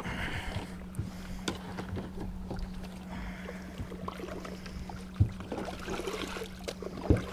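Water lapping and trickling around a small boat at the shore, with light knocks and bumps against the hull and a steady low hum underneath.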